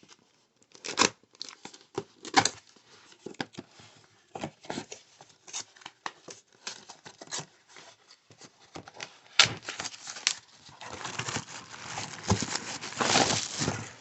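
Cardboard box packaging being cut and torn open, with scattered scrapes and clicks. About nine seconds in it turns into a denser, louder stretch of crinkling and rustling as the packaging is pulled apart.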